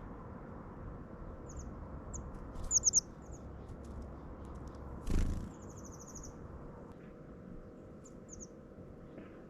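Small songbirds giving short, high-pitched chirps, with a quick run of three loud notes about three seconds in and a rapid trill around six seconds. A single soft thump comes about five seconds in.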